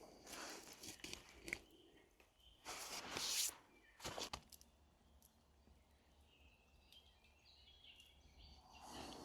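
Several irregular rustling, crunching movement noises, the loudest about three seconds in, with a quieter stretch in the middle.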